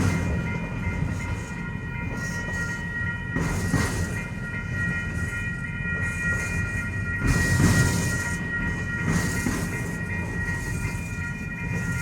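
Norfolk Southern freight train's cars rolling past with a continuous rumble and a steady high-pitched ringing squeal, broken by louder clattering surges about four seconds in, around seven to eight seconds, and again near nine seconds.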